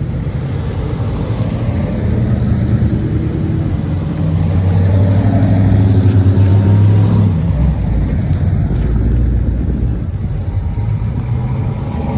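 Car engine running, its note shifting up and down with the revs. It is loudest between about four and seven seconds in, then drops to a lower rumble.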